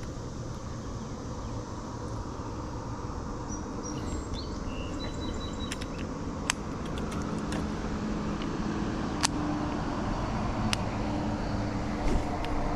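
Steady low outdoor rumble, like distant road traffic, with a low hum coming in about halfway and a few sharp clicks scattered through the second half.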